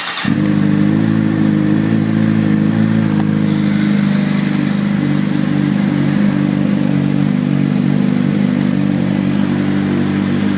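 2011 Suzuki GSX-R 600's inline-four engine, breathing through an Arrow GP2 exhaust, catching right at the start and settling into a steady idle.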